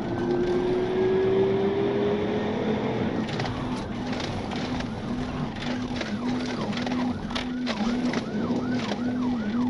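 Police car siren in rapid yelp mode over vehicle road noise. The siren's quick rising-and-falling sweeps grow clearer in the second half. An engine note climbs slowly in pitch over the first few seconds as the vehicle accelerates.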